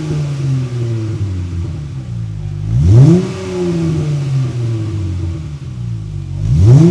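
Dodge Challenger's 3.6 Pentastar V6 revved at standstill and heard from the exhaust. It idles between two quick throttle blips, one about three seconds in and one near the end; each rises sharply in pitch and falls back slowly.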